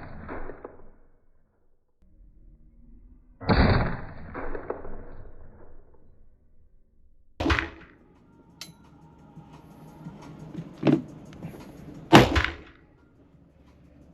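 AR-15 rifle fired in slow, aimed single shots, three loud shots a few seconds apart, each with a short echo, and a fainter report shortly before the last one.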